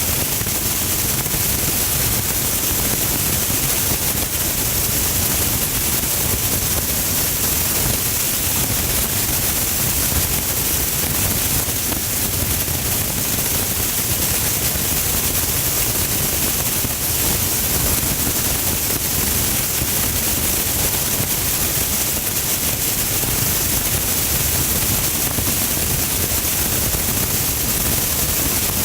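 Steady hiss of rain and tyres on a wet road from a car driving in the rain.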